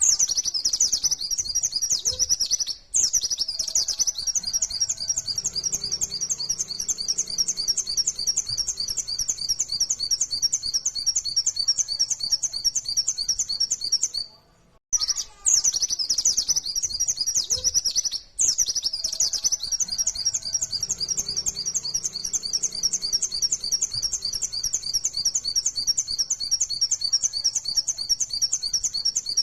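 Pleci (white-eye, Zosterops) singing in long runs of rapid, high chirps without pause, the fast 'nembak' song. It breaks off briefly a few times, and the same long phrase seems to play twice.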